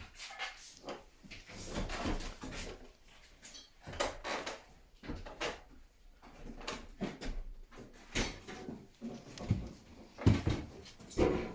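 Irregular knocks, clicks and rattles of an Atlant MXM-1845 refrigerator's doors and plastic drawers being handled, opened and closed.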